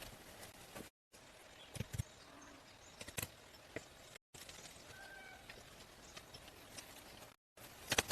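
Faint steady background hiss with scattered sharp knocks and clicks, a few in quick succession, broken by brief moments of total silence.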